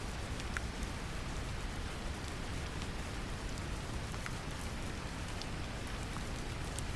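Steady brown noise mixed with the patter of rain, with scattered individual drop ticks over a deep even rumble.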